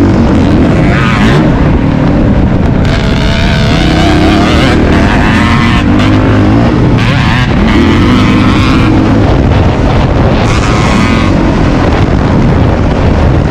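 Dirt bike engine running hard, its revs climbing and dropping back again and again, with wind buffeting the microphone.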